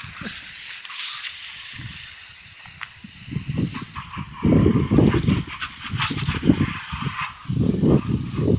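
Wind buffeting the microphone: a steady hiss with irregular gusty low rumbles that grow stronger about three seconds in.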